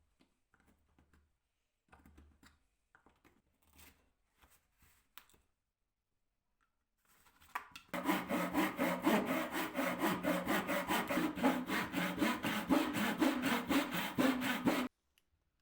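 Wood being worked with rapid back-and-forth strokes, sawing or rasping in an even rhythm of about five or six strokes a second, starting about eight seconds in and stopping abruptly about seven seconds later. Before it come a few light knocks of handling.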